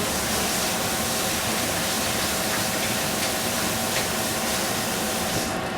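Food sizzling steadily as it fries in hot oil, with a faint steady tone underneath. The sizzle eases off just before the end.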